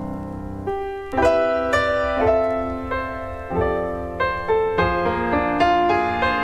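Piano instrumental break in a slow ballad. A held chord fades, then notes and chords are struck about twice a second, each ringing on.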